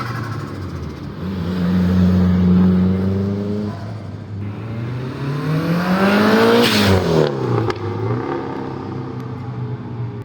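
Car engine running, then revved once about five seconds in: the pitch climbs for about two seconds, then drops back quickly to idle.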